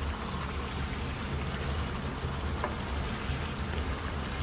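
Chicken curry sizzling and bubbling in a non-stick pan as the masala and chicken are fried down (bhuna), a steady crackling patter over a low hum, with a few faint ticks as a wooden spatula stirs near the end.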